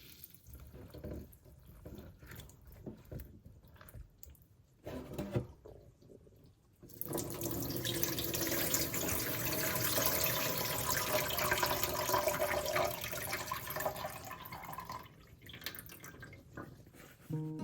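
Water from a tap running into a sink. Quiet drips and small handling sounds come first; the water then flows steadily from about seven seconds in and stops near fifteen seconds.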